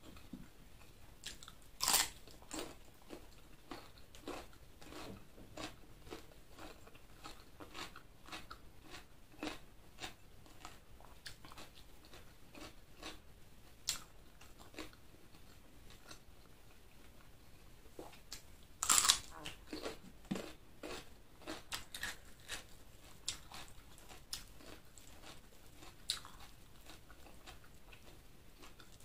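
Close-miked eating sounds from a meal of chicken liver and gizzard: a steady run of chewing with short wet clicks and crunchy bites. The loudest bites come about two seconds in and again about nineteen seconds in.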